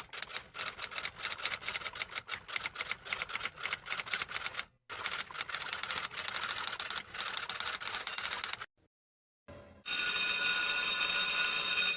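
Rapid runs of sharp tapping clicks, several a second, broken by two short pauses and stopping after about eight and a half seconds. After a short gap, a louder steady ringing with several held pitches lasts about two seconds.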